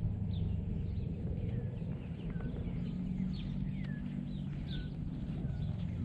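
Small birds chirping: many short, downward-sliding calls, a few each second, over a steady low rumble.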